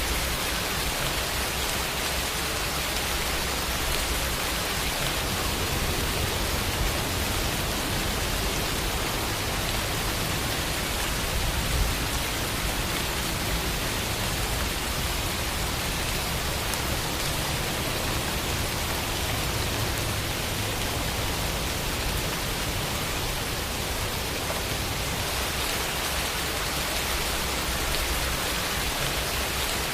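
Steady rain falling, an even hiss of many drops with a low rumble beneath, and a slightly louder moment about twelve seconds in.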